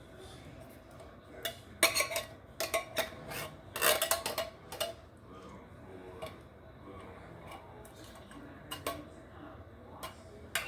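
Kitchen clatter: metal utensils and cookware clinking and knocking against a cooking pot in scattered bursts, busiest from about two to five seconds in.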